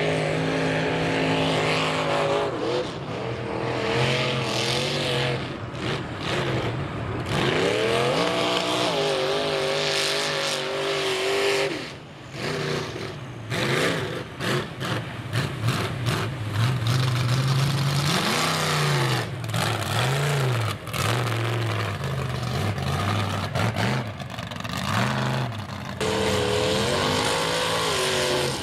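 Mega mud truck engines on open headers revving hard, the pitch climbing and dropping with the throttle as the trucks push through deep mud. The sound changes abruptly several times.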